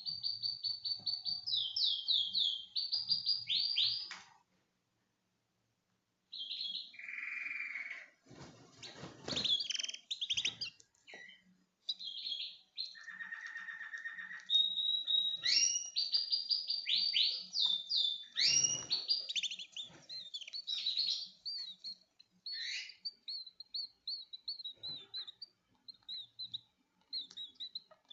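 Domestic canary singing: fast high trills and tours repeated in quick succession, with lower rolling phrases now and then. The song pauses for about two seconds after the first phrase.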